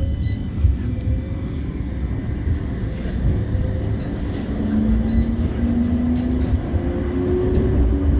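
CAF Urbos 3 tram pulling away with a steady low running rumble. Over the last few seconds a traction-motor whine rises in pitch in steps as it accelerates, heard from inside the passenger saloon.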